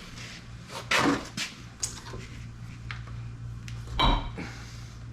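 Steel parts and tools clanking and knocking while a hydraulic cylinder is worked apart in a vise, with sharper knocks about a second in and again near four seconds, over a steady low hum.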